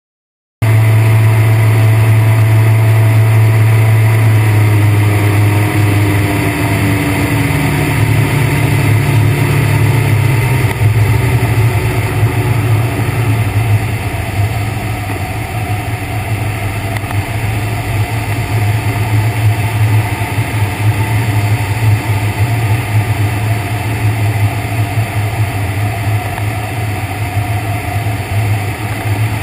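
Ultralight trike's engine in flight with air rushing past the microphone: its pitch falls slowly over several seconds as it is throttled back, then a steady low drone.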